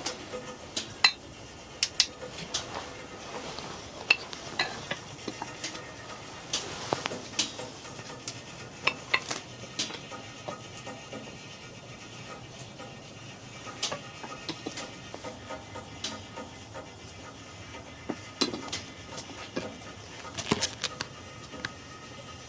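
Dishes and cutlery clinking and tapping in irregular sharp knocks, over a steady hiss.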